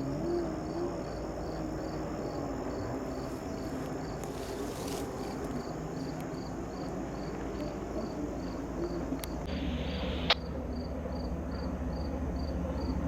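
A cricket chirping steadily, high short pulses about four a second, over a low steady hum. A single sharp click sounds near the end.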